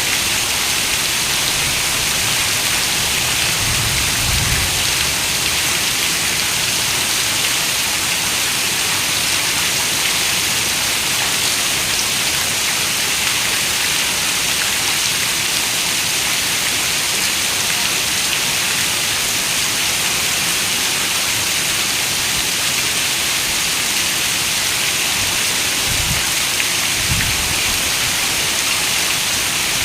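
Steady, dense rain hiss with no let-up. A few brief low rumbles come through, about four seconds in and twice near the end.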